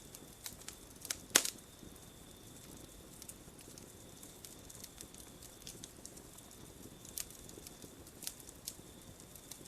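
Campfire crackling: scattered sharp pops and snaps over a low steady hiss, one pop a little over a second in much louder than the rest. A faint, steady high tone runs behind it.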